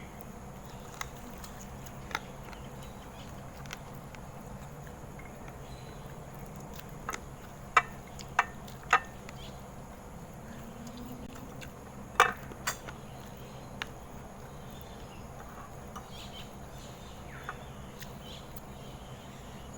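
Scattered clinks and taps of cutlery and dishes at a dinner table, a handful of short knocks with the loudest around eight and twelve seconds in, over a steady low background hum.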